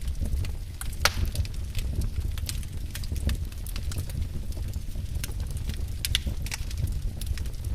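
Wood fire burning in a fireplace, a steady low rumble of flames with irregular sharp crackles and pops, one louder pop about a second in.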